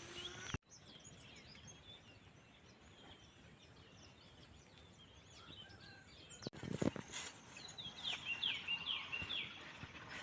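Small birds chirping and twittering outdoors at a low level, with many short high chirps. They grow louder in the last few seconds, and a few soft thumps come about two-thirds of the way in.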